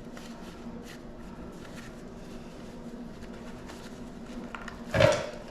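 Copper winding wire being unwound by hand from an old welder's coil: faint scraping and rustling of wire, with one short, louder knock about five seconds in.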